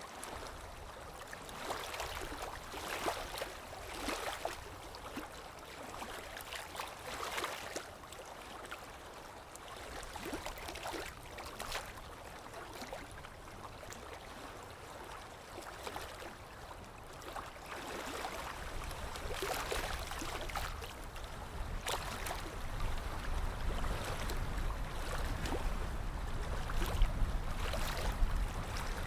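Ambient water sounds: a steady wash of moving water broken by irregular splashes and drips. A low rumble grows louder over the last ten seconds or so.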